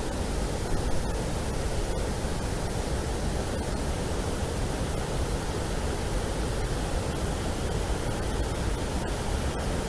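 Steady, even rushing noise with no birdsong in it.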